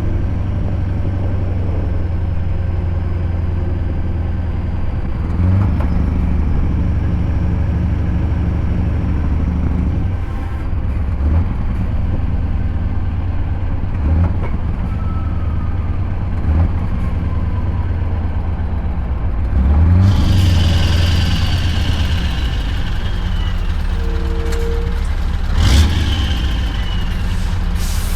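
Scania V8 diesel truck engine running steadily on the road, its note shifting now and then as the driver changes gear. About twenty seconds in, and again near the end, it gets louder with a high whine falling in pitch.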